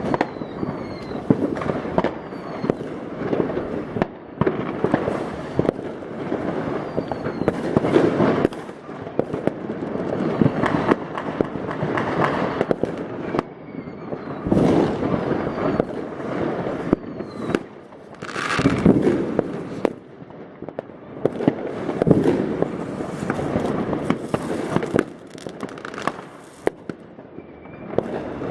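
New Year's Eve fireworks: a near-continuous barrage of overlapping bangs from rockets and firecrackers, with crackling and a few short falling whistles.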